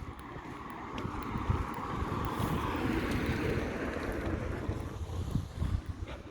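A passing vehicle, its noise swelling to a peak about halfway through and then fading, with wind buffeting the microphone.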